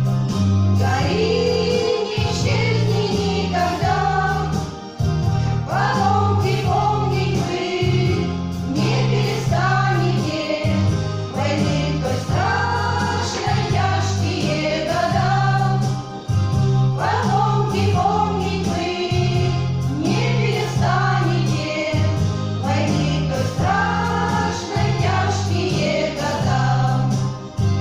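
Women's vocal ensemble singing a song together in chorus over an instrumental accompaniment with a bass line that moves in steps.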